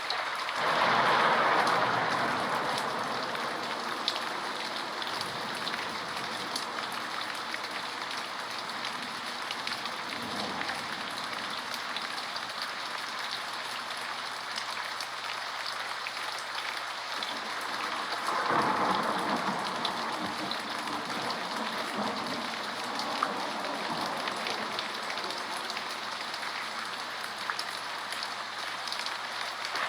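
Steady heavy rainfall, an even hiss of drops, swelling louder twice: about a second in and again a little past the middle.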